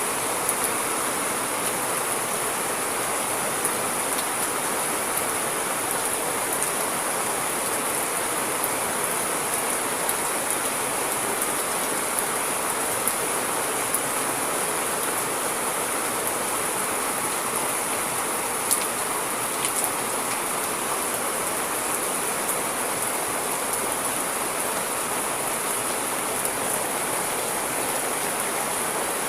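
Steady rain falling, a constant hiss with scattered light drop ticks.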